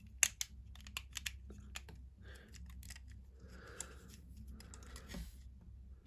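Light clicks and taps of plastic Lego pieces being handled, a quick run of them at first, then sparser, with a few soft rustles between.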